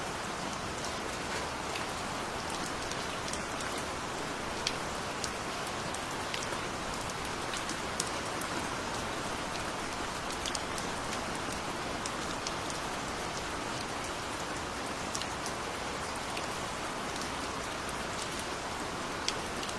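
Steady rain falling, an even hiss with scattered sharper clicks of individual drops hitting a surface.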